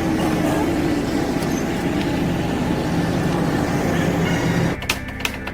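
Truck engine running with a steady, rapidly pulsing low rumble. Near the end it cuts off and music with a sharp, regular percussion beat takes over.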